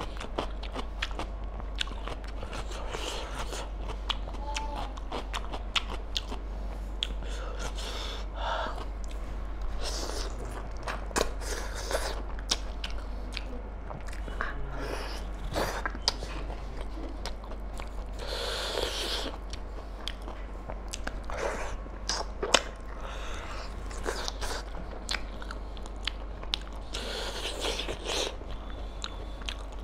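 A person chewing and biting mouthfuls of mutton curry and rice, with many small wet mouth clicks and smacks.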